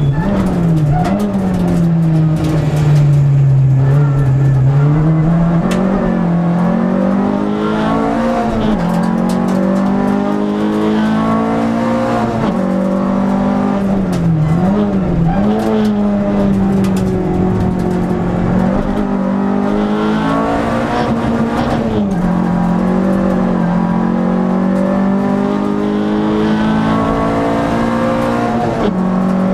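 Renault Clio II RS rally car's four-cylinder engine heard from inside the cabin, driven hard uphill. The revs rise and fall continually, with quick sharp dips and recoveries about a second in and again near the middle.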